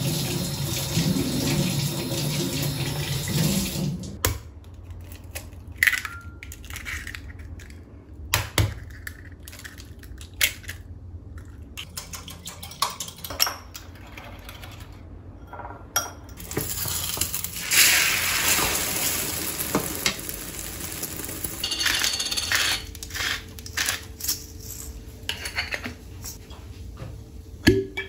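Kitchen tap running into a sink, shutting off about four seconds in, then scattered clinks and knocks of dishes and utensils being handled. The water runs again for a few seconds midway, with more clatter near the end.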